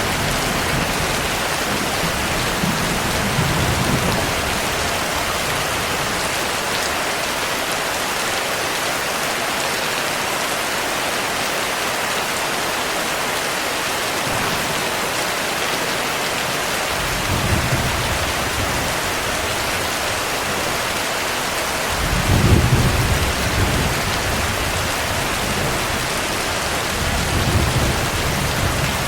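Steady heavy rain with thunder rolling low several times, the strongest roll about two thirds of the way through.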